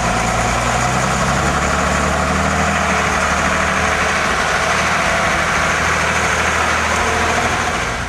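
Heavy truck engine running at a steady, unchanging speed.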